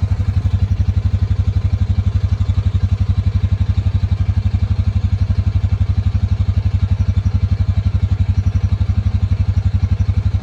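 Honda Pioneer 700-4 side-by-side's single-cylinder engine running steadily at a low, even throb.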